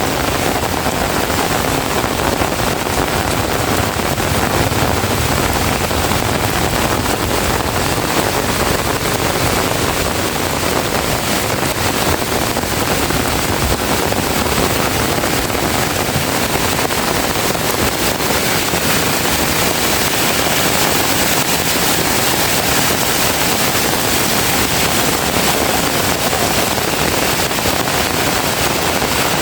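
Heavy rain falling hard, a loud, steady rush with no let-up.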